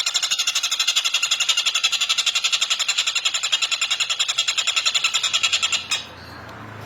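Tengkek buto kingfisher giving its long cackling call, a rapid even rattle of about a dozen notes a second that stops abruptly about six seconds in, leaving a faint low hum.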